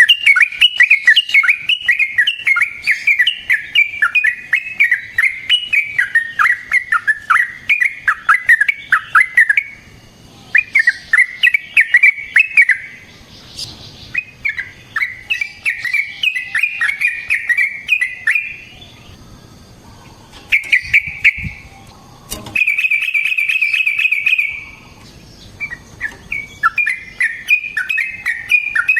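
Yellow-vented bulbul (trucukan) singing long runs of rapid chattering notes, broken by a few short pauses, with a fast even trill about two-thirds of the way through.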